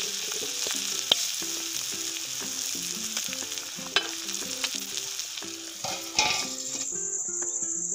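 Chicken liver sizzling as it fries in a shallow blackened pan, stirred and scraped with a flat metal spatula, with a few sharp clicks of the spatula. About six seconds in, a steel bowl clatters down over the pan as a lid and the sizzling stops. Near the end crickets chirp steadily.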